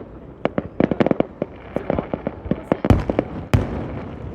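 Fireworks going off: a rapid string of sharp cracks and pops, then two loud booms about three and three and a half seconds in, followed by a low rumble.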